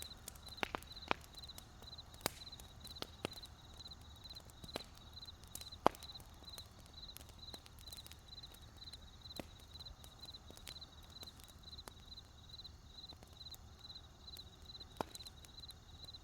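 Wood campfire crackling with irregular sharp pops, the loudest about six seconds in, over a steady chirping of crickets at about three chirps a second.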